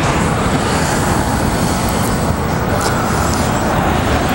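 Harley-Davidson Twin Cam 103 V-twin idling steadily, a loud low rumble through chrome slash-cut mufflers that the dealer thinks are aftermarket upgrades.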